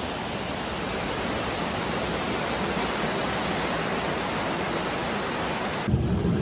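Steady, dense hiss of heavy rain and rushing water, switching abruptly near the end to a lower rumble.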